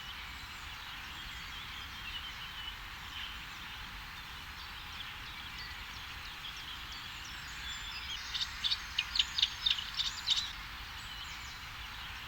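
Birdsong: faint chirping from small birds, and a little over eight seconds in, one bird's loud song phrase of about ten quick high notes lasting about two seconds.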